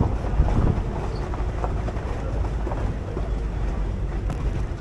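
Steady rumble and road noise of a moving tour shuttle vehicle, with wind buffeting the microphone and a few faint knocks.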